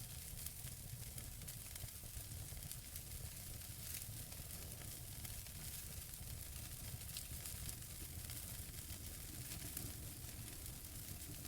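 Wood fire burning in a fireplace: a steady soft hiss with many small scattered crackles and pops, over a low rumble.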